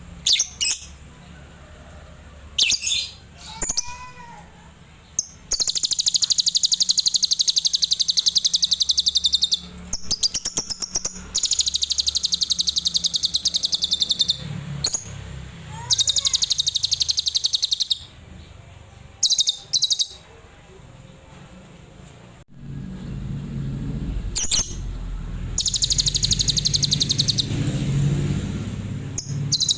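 Adult lovebird singing in long, very rapid, high-pitched trills, each lasting two to four seconds and broken by short chirps. This is the fast 'tembakan' song style of Cililin lovebirds.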